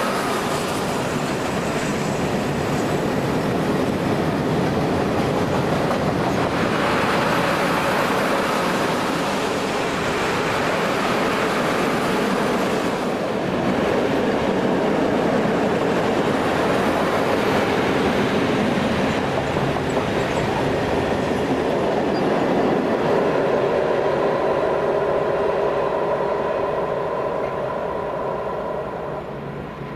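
A train passing close by, its wheels running on the rails in a steady rush of noise that dies away near the end.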